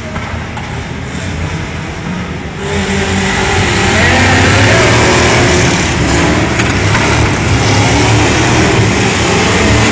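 Engines of a Subaru Impreza and a Jeep CJ7 revving hard as they race through a tough-trucks course. The engine noise jumps much louder about three seconds in and stays loud.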